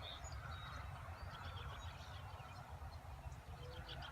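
Faint outdoor ambience: small birds chirping over and over above a low, steady rumble.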